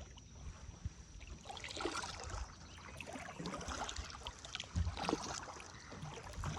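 Kayak paddle strokes: the blades dip and splash in the river and water drips off them, with a couple of low knocks.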